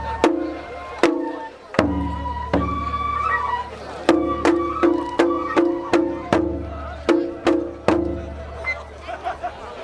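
Japanese festival music: sharp drum strokes, a quick run of them at about two and a half a second in the middle, deep booming big-drum strokes now and then, and a thin flute line above.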